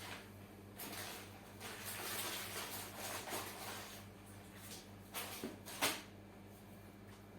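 Hands handling parts and wiring: a few seconds of rustling and scraping, then two sharp clicks, over a steady low hum.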